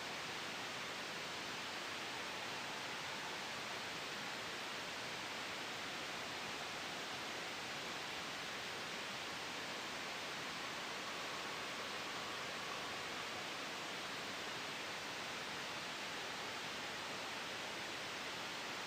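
Soft white noise blended with a gentle wind sound, used for sleep and noise masking: a steady, even hiss with no sudden changes.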